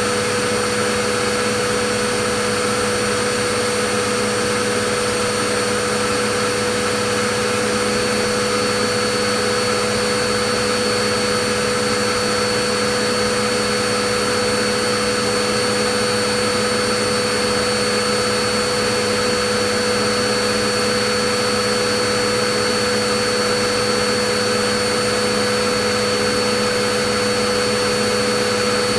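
Vacuum cleaner running steadily, a constant rushing noise with a fixed motor whine that never changes.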